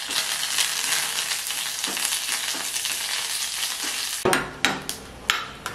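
Dried red chillies and curry leaves sizzling in hot oil in a small aluminium pan, stirred with a spoon. The sizzle cuts off suddenly about four seconds in, followed by a few sharp metallic clinks.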